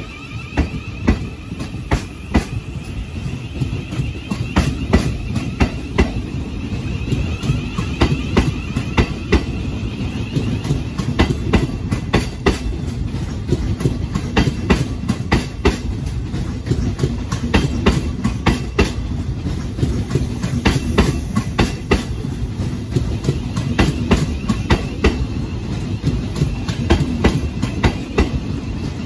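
Thameslink Class 700 electric train rolling past close by, its wheels clicking repeatedly over rail joints above a steady low rumble. A high whine sounds in the first few seconds and then fades.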